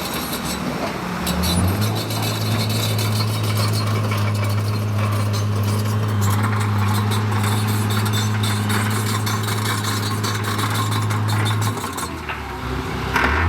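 Heavy construction machine's diesel engine running with a steady low drone. The drone drops away briefly near the start and again near the end, over a rough background rustle and clatter.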